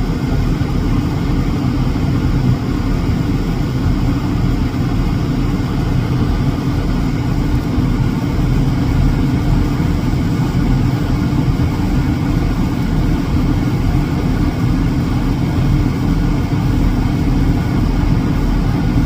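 A steady, unbroken low rumble, like a vehicle engine running.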